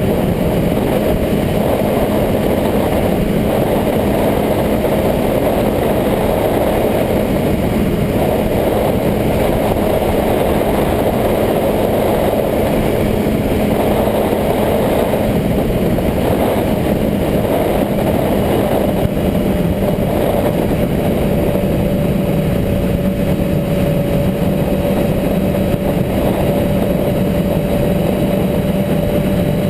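Motorcycle engine running steadily at an even pitch, with a constant rushing noise.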